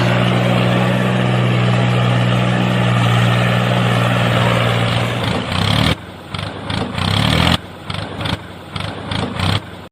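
A small motor runs with a steady hum. From about six seconds in it comes in short, choppy stop-start bursts with abrupt cuts.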